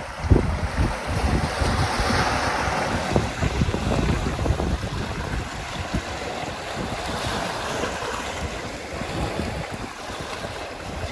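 Sea waves washing and hissing on the shore, swelling and fading, with wind buffeting the microphone in low, irregular rumbles.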